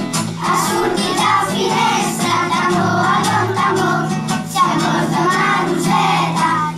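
A children's choir singing a song together, with steady sustained low notes beneath the voices.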